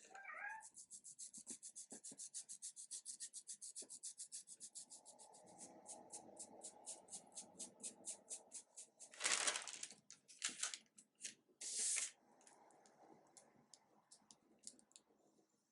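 A brush scrubbing rapidly back and forth on paper, about seven short strokes a second, slowing and becoming uneven after a few seconds, with several louder, longer scrapes about two-thirds of the way through.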